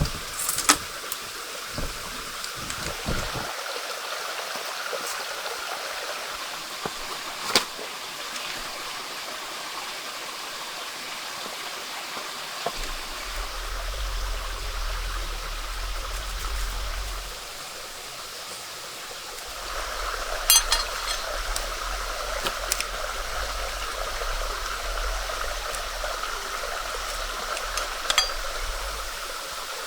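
Steady rush of running water, with a few sharp clicks scattered through it and a low rumble underneath for part of the time.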